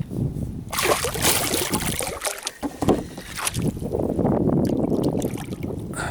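Water splashing and sloshing at the side of a kayak: a run of sharp splashes from about a second in, then a steadier rushing slosh near the end.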